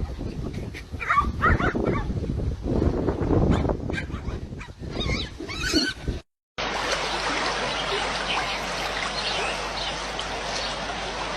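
An animal's short calls that glide in pitch, over irregular knocking and rustling. After a brief silent cut, a steady hiss with faint high chirps.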